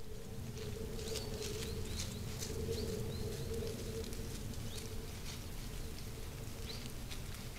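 Several short, high bird chirps, scattered through the first few seconds and once more near the end, over a steady low hum and background noise in a trail-camera recording.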